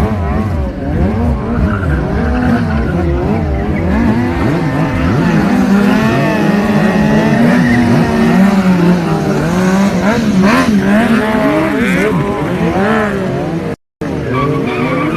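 Several motorcycle engines revving up and down at once, pitches rising and falling against each other, with a brief break near the end.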